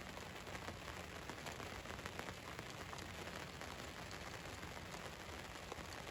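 Rain falling on a van's roof, a steady patter of many small drop ticks.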